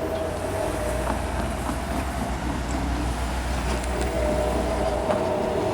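A train running past on the tracks, with a steady low rumble and a few scattered clicks from the wheels and rails.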